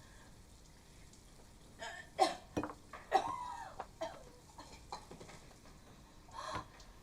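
A person coughing and gasping in a few short, irregular bursts, the loudest cluster about two to three and a half seconds in and one more near the end.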